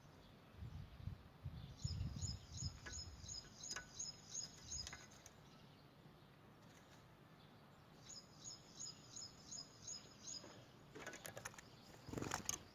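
Canary singing, faintly: two phrases of the same high note repeated evenly, about three times a second. A few clicks and knocks near the end.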